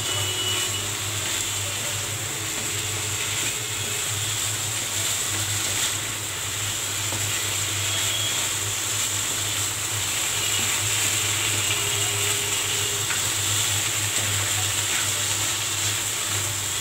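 Chicken pieces in masala sizzling in a hot non-stick kadhai on high flame, scraped and turned with a wooden spatula as the last of the liquid cooks off, over a steady low hum.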